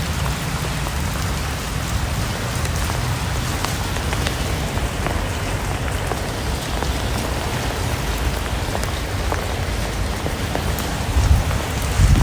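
Steady rain falling, an even hiss of many small drops hitting a surface, with scattered sharper drop ticks.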